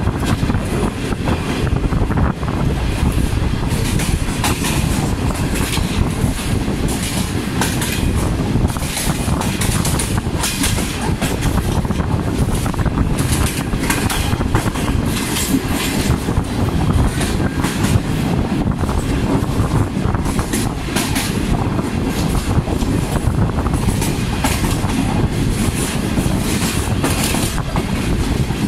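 Subak Raftar Express passenger train running along the line: a steady low rumble with irregular clicking and rattling of the wheels over the rail joints.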